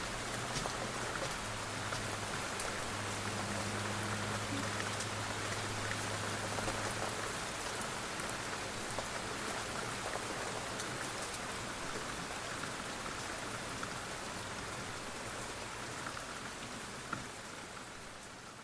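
Steady rain falling, an even hiss of drops with scattered sharper drop ticks, slowly fading toward the end. A faint low tone sits under it for the first several seconds.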